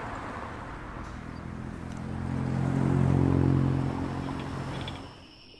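A motor vehicle driving past: the engine and road noise swells to a peak about three seconds in, then fades and drops away near the end.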